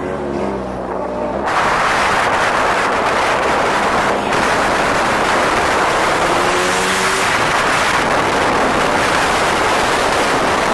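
A car engine running, then from about a second and a half in a loud, steady rushing noise of a car on the move.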